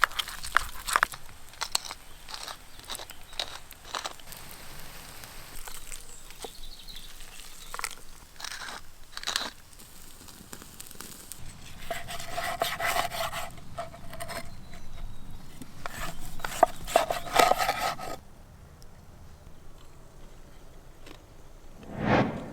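Irregular crackling, clicks and scrapes from cooking over an open wood fire, with a few short squeaky scrapes among them; it turns much quieter about eighteen seconds in.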